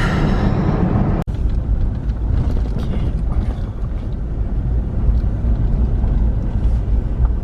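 Vehicle driving, a steady low road rumble as heard from inside, briefly broken by a cut about a second in.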